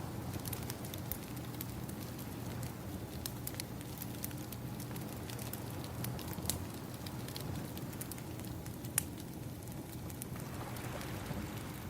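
Wood fire crackling, with sharp irregular pops, over a steady low rush of ocean waves; a wave washes in and swells near the end.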